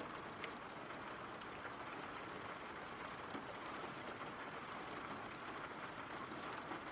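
Steady rain: an even hiss with a few faint scattered drop ticks.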